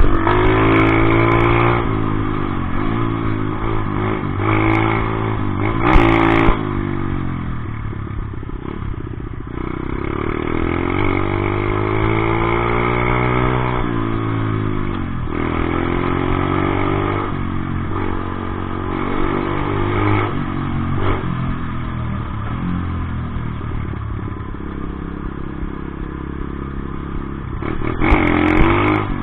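Dirt bike engine revving up and down, its pitch climbing and dropping again and again, with a few sharp knocks near the start, about six seconds in, and near the end.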